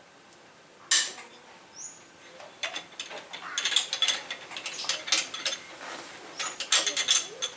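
Ratchet wrench clicking in quick runs, with one sharp metallic clank about a second in.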